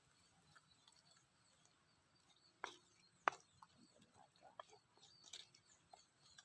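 Near silence broken by a few faint clicks and taps, with two sharper knocks about three seconds in.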